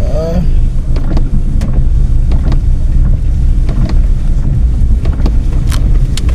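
Car driving, heard from inside the cabin: a loud, steady low rumble of engine and road noise, with scattered sharp ticks over it.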